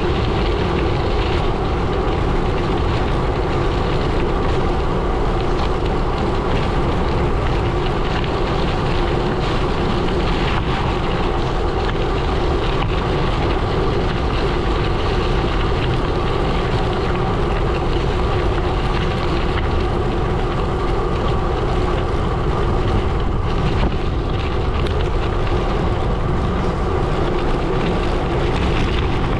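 Gravel bike tyres rolling over a gravel road: a steady crunching rumble with a constant low roar underneath.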